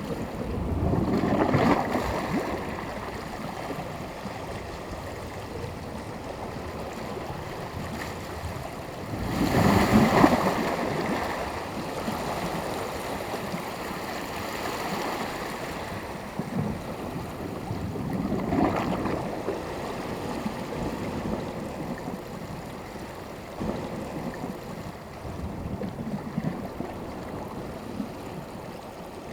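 Small sea waves breaking on the shore over a steady wash of surf, with three larger waves swelling and breaking, about a second in, near the middle and about two-thirds through.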